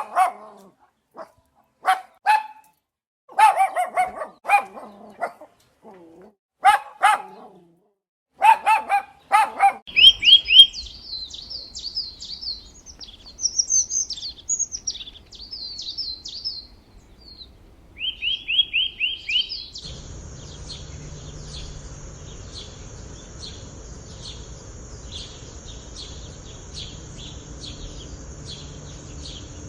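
A dog barking in short separate barks, often two or three in quick succession. Then a bird sings quick high chirping phrases. From about two-thirds of the way in, a chorus of repeated chirps runs over a steady high drone.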